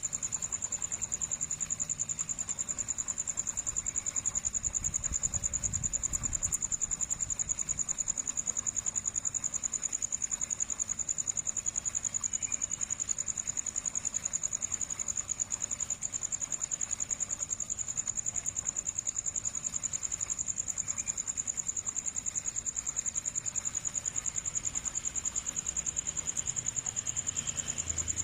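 Insect trilling continuously: one high-pitched, fast and even pulsing note held steady at the same pitch.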